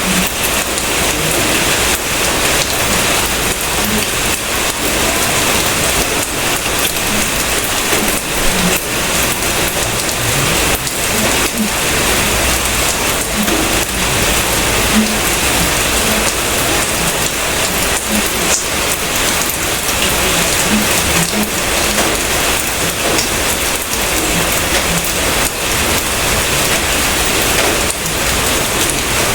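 Steady heavy rain falling: a dense, even patter of many drops hitting surfaces, with no pauses.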